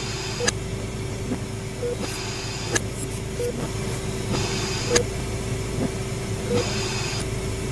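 Eerie hospital ambience built from sound effects: a steady low drone and hum, with a hiss that swells about every two seconds, short faint beeps and a few sharp clicks.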